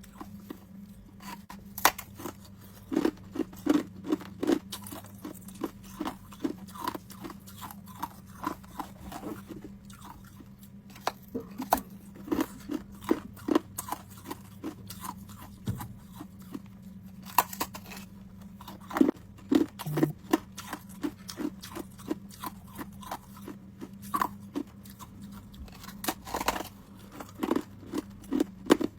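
A person biting and chewing homemade ice cubes up close: bursts of crisp crunches with short pauses between bites, over a steady low hum.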